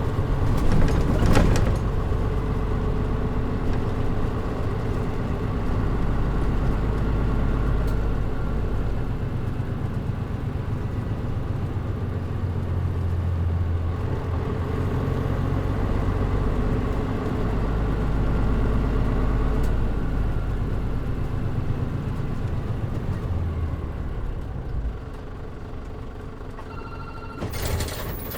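Interior running sound of a Mitsubishi Fuso Aero Star (KL-MP37JM) city bus: its turbo diesel engine drones steadily, pulling harder twice and easing off near the end as the bus slows. Short hisses come about a second in and near the end.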